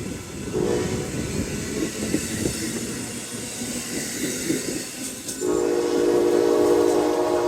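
Amtrak train horn sounding a chord of several steady notes, breaking off for a few seconds of rumbling, clattering train noise, then sounding again about five and a half seconds in and holding on.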